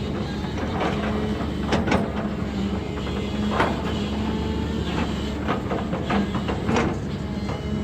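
Heavy earthmoving machine's engine running steadily, with a sharp knock or clank every second or two.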